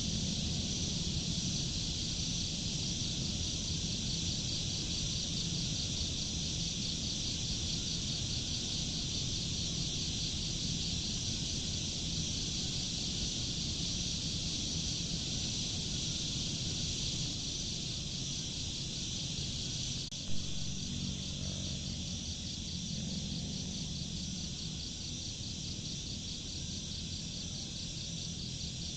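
A steady chorus of crickets and other insects chirping in a dense, even trill, over a low rumble. A single short pop about two-thirds of the way through.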